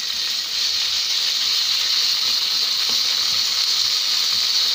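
Minced pork frying in hot oil with sautéed garlic and onion in a skillet: a loud, steady sizzle as the meat is stirred with a spatula.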